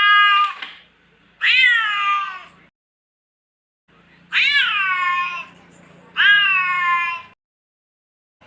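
Domestic cat meowing: a meow already sounding at the start, then three more long meows, each rising briefly and then falling in pitch. Abrupt silent gaps separate the calls.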